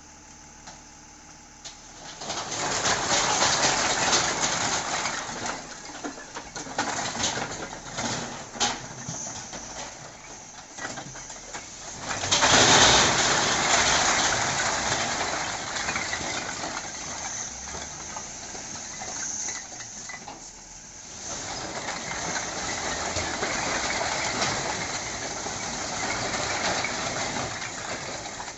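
A load of bricks sliding and clattering out of a tipper truck's raised body, a dense rattling with many sharp knocks that starts about two seconds in, surges near the middle, eases briefly and picks up again, over the truck's running diesel engine.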